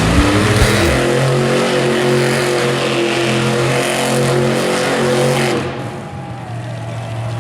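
Monster truck engine revving: the pitch climbs in the first second, then holds a steady high note for several seconds before easing off near the end.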